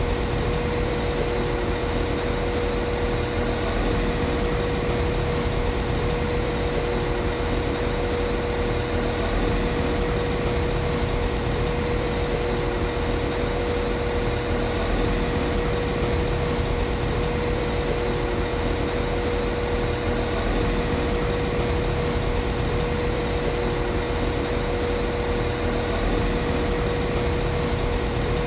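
Class 195 CAF Civity diesel multiple unit's underfloor MTU diesel engine idling steadily, a low even rumble with a constant high hum over it.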